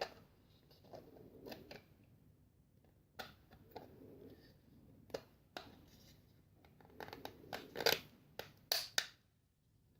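Faint, scattered clicks and scrapes of 3D-printed plastic parts being handled and fitted together, with a cluster of louder clicks near the end.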